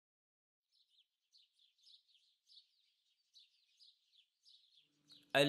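Faint bird chirping: a quick run of short repeated chirps, about three or four a second.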